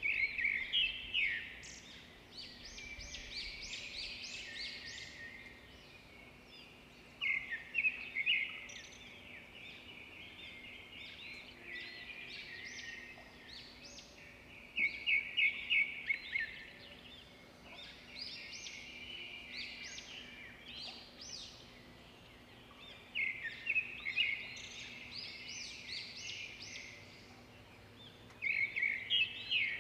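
Birds chirping and singing in bursts of quick, rapidly repeated high notes, returning every several seconds, over a faint steady hum.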